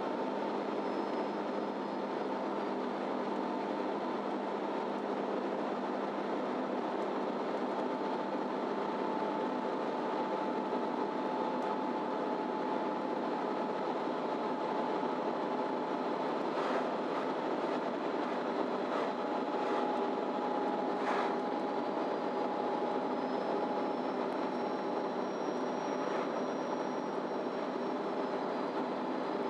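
Cabin sound of a MAN Lion's City Ü intercity bus under way: a steady drone of engine, drivetrain and road with a constant whine running through it, and a few short rattles or knocks in the second half.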